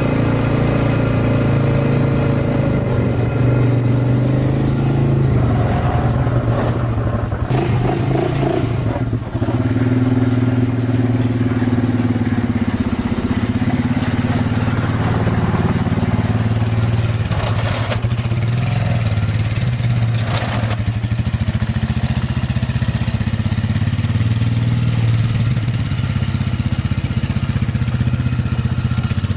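Quad bike engine running under way, its pitch rising and falling as the throttle changes.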